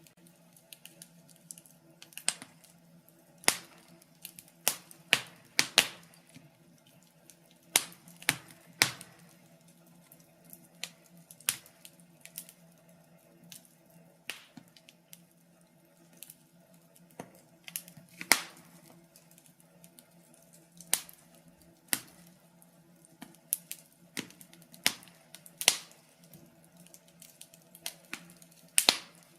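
Wood fire crackling in a fireplace: irregular sharp pops and snaps, some loud, scattered every second or so over a faint steady hum.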